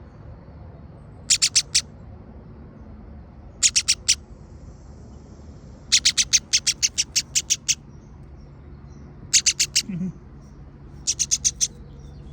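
A bird calling in five bursts of rapid, sharp, high-pitched chirps, each burst a quick series of four to about a dozen short notes.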